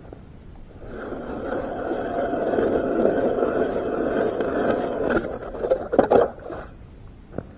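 A steady scraping on snow or ice that swells in about a second in, holds, and ends with a few sharp knocks about six seconds in before stopping.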